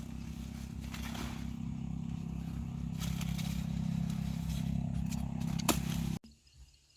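An engine running steadily and growing slightly louder, with a sharp click near the end, then cut off abruptly about six seconds in.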